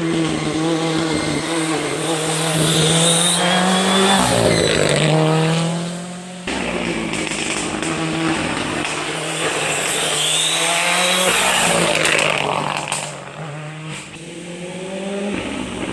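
R5 rally cars' turbocharged four-cylinder engines revving hard through a corner and driving away. Engine pitch climbs and drops with throttle and gear changes. The sound switches abruptly to a second car about six and a half seconds in, dies down near the end, and starts building again.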